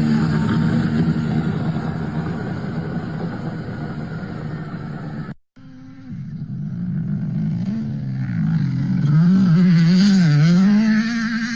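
Rally car engines running at speed. The sound cuts off briefly about five seconds in, then a car's engine note climbs and swings up and down several times as the driver works the throttle, at its loudest near the end.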